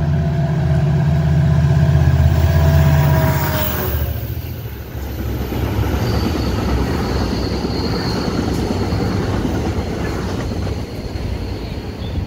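A diesel push-pull commuter train passing close by. For the first few seconds the locomotive's engine runs loudly, with a tone that drops in pitch as it goes by. Then the bi-level coaches roll past, wheels rumbling on the rails, with a faint high wheel squeal for a few seconds in the middle.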